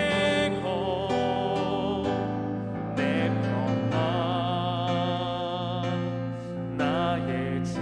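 Christian worship song: a voice singing with vibrato over sustained instrumental accompaniment.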